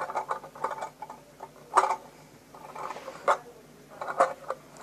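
Small hard toys being handled, giving irregular clicks and knocks with a few sharper knocks spaced about a second apart.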